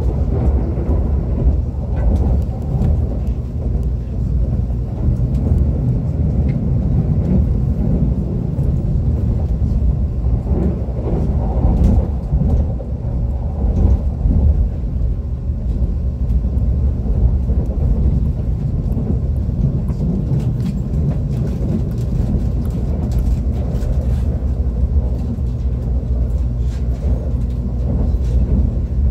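ITX-Maum electric multiple-unit train running along the line, heard from inside the passenger car: a steady low rumble of wheels on rails with faint scattered clicks.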